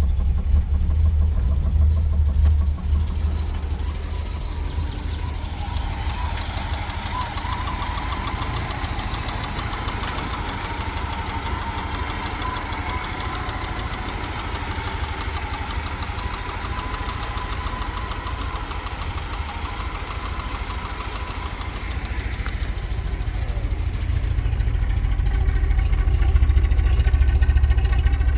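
1988 Land Rover Defender 110 engine idling steadily soon after a cold start. For a long stretch in the middle a higher hiss with a faint whine rides over the idle, then fades out.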